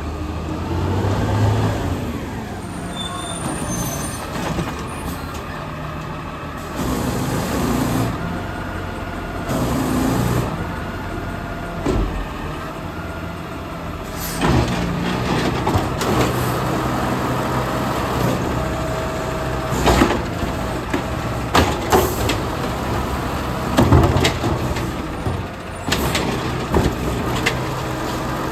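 Garbage truck engine running, with two air-brake hisses and then several sharp clanks and knocks in the second half.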